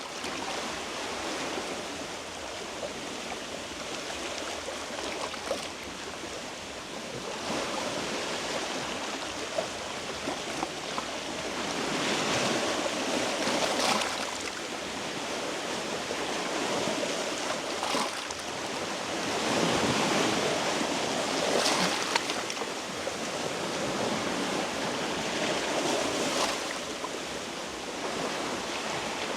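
Sea waves washing against shoreline rocks, swelling into louder surges every several seconds, with a few sharp splashes.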